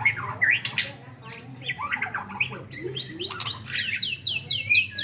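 White-rumped shama singing a varied, fast song of whistles, chirps and clicks, with a quick run of repeated falling notes in the second half.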